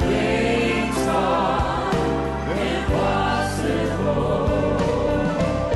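Gospel choir singing slow, long-held notes with instrumental accompaniment.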